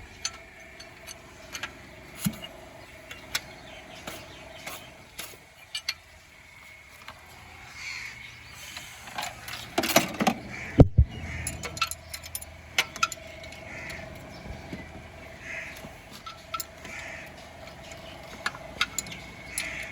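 Scattered metallic clinks and taps of hand tools being handled and used, with a louder cluster of knocks and clatter about ten seconds in.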